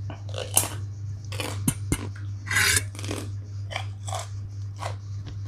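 Close-miked eating: a man bites into a fat green chili and chews a mouthful of fried noodles, with irregular crunches and wet mouth smacks over a steady low hum.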